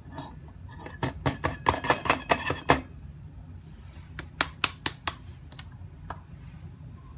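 Small hard objects being handled: a quick run of clicks and rattles, then about half a dozen separate sharp clicks a couple of seconds later and one more near the end.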